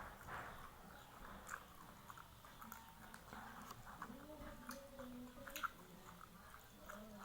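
Faint close-up chewing and biting: soft mouth sounds with many small scattered clicks as food is eaten. A faint wavering tone sounds in the background about four to five seconds in.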